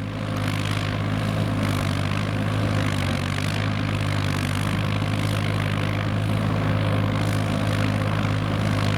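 Kubota M5000 tractor's diesel engine running steadily at a constant pitch, with a rough noise over it from the machine working.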